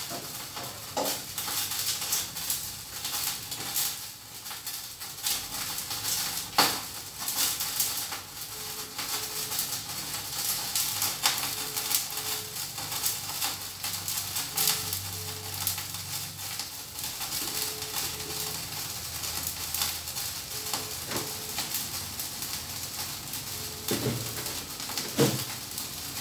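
Steady crackling sizzle of food frying on a gas stove, with a few sharp knocks: one about six seconds in and two near the end.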